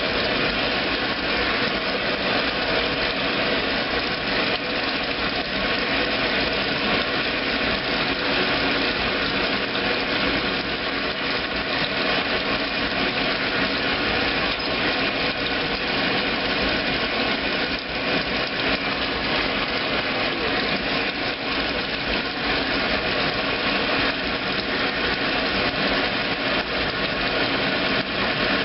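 2008 Kenmore top-load washing machine running steadily on its heavy duty cycle: a constant motor-and-drive hum with no break or change.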